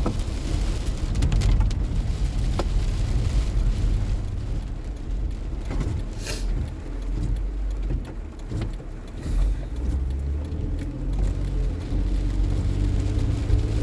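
Car cabin noise while driving on a wet road: a steady low rumble of engine and tyres, with a brief hiss about six seconds in.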